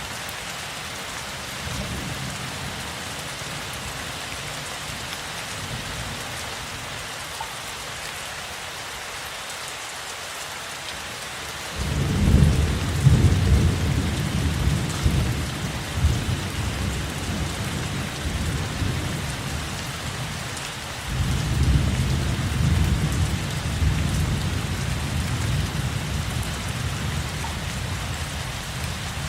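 Steady rain falling, with rolling thunder: a faint low rumble early on, then a loud roll a little before halfway that slowly dies away, and a second roll about two-thirds through that fades out near the end.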